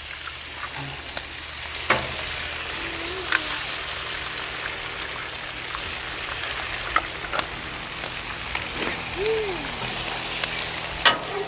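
Eggs and sliced potatoes frying in bacon grease on a Blackstone flat-top griddle: a steady sizzle, with a few light clicks over it.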